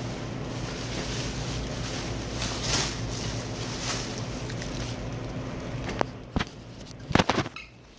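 A steady machine hum with a rushing, airy noise over it. The noise drops away about six and a half seconds in, and a few sharp knocks come near the end.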